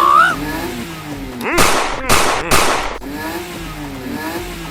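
A vehicle engine running with an unsteady, wavering pitch. About a second and a half in, three loud, sharp noisy bursts come in quick succession.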